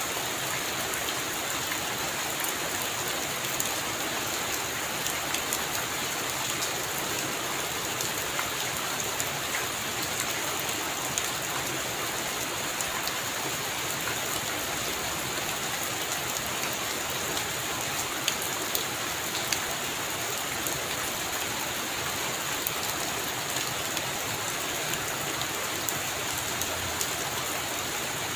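Heavy rain falling steadily, a constant hiss with many scattered individual drops ticking sharply on surfaces.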